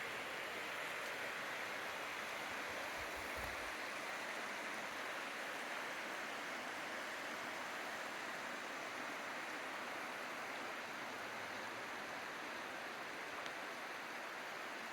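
Steady rush of flowing stream water, an even hiss with no break or rhythm.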